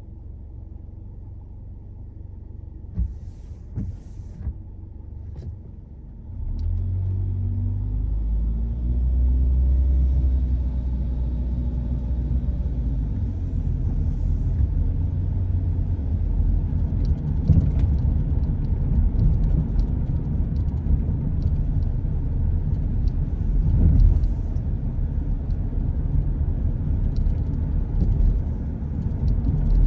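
A car pulling away and driving. After a quieter first few seconds, the low rumble jumps up about six seconds in and the engine note rises as it accelerates, then settles into a steady rumble of engine and tyres on the road.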